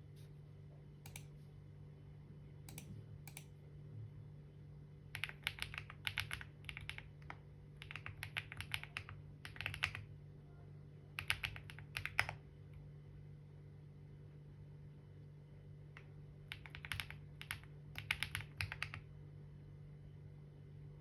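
Typing on a computer keyboard: quick runs of keystrokes in two main bursts, with a few lone key presses and a pause of a few seconds between bursts.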